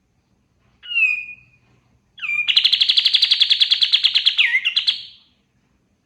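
Kapas tembak songbird singing: one short falling whistle, then a fast rattling trill of about a dozen notes a second, held for about three seconds and ending in a few rising notes.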